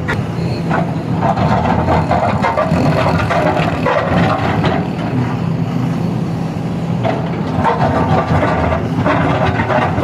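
Hydraulic excavator's diesel engine running steadily under load, with irregular clattering and scraping over it.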